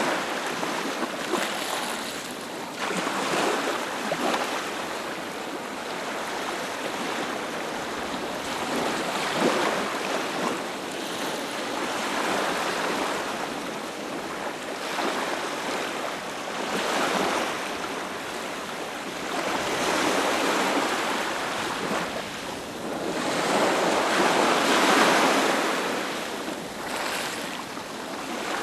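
Ocean waves breaking and washing up a beach, a steady rush of surf that swells and ebbs every few seconds, loudest near the end.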